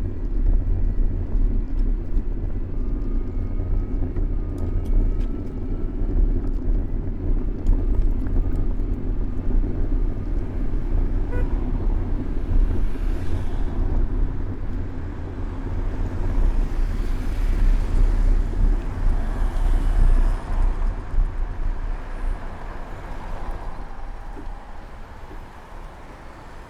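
City road traffic from a moving bicycle: cars and other vehicles running by under a heavy, steady low rumble that eases off over the last few seconds.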